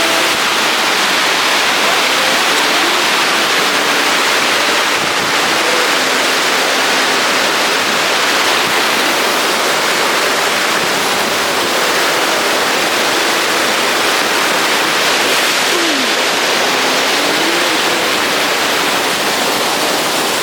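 Rushing mountain stream or river water, a loud steady roar.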